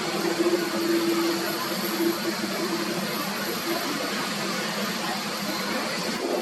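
Jet airliner engines running: a steady rushing noise with a low humming tone that fades out about halfway through.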